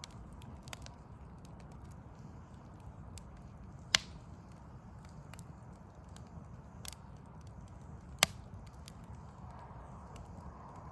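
Backyard wood fire crackling: scattered small clicks and sharp pops from burning logs, with two loud pops about four and eight seconds in, over a steady low rumble.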